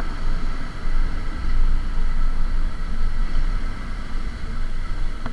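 Motor vehicle running on the road: a steady low rumble with a faint steady hum above it.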